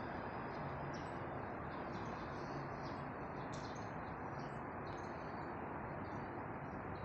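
Small birds chirping, many short high chirps again and again, over a steady low background hum of the street.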